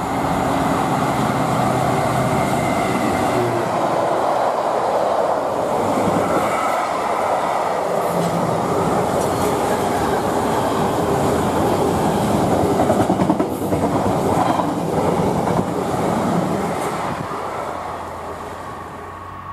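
A train passing close by, its wheels running along the rails with a steady rumble and a few sharp clicks over rail joints in the second half. The sound eases off over the last few seconds.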